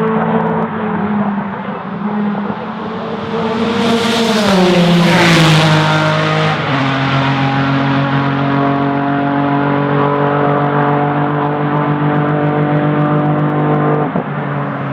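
Racing car engine at high revs passing close by, its pitch dropping as it goes past about five seconds in, followed by a steady engine note and a brief dip near the end.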